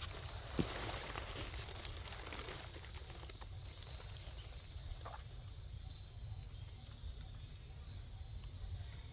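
Quiet outdoor background with a steady low rumble, a single sharp knock about half a second in, and soft rustling over the first few seconds.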